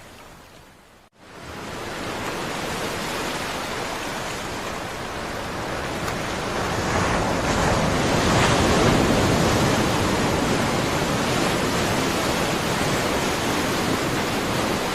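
Rough sea and wind: a steady rushing of waves and wind noise on the microphone, cutting out briefly about a second in, then swelling louder around the middle as the boat is tossed on the swell.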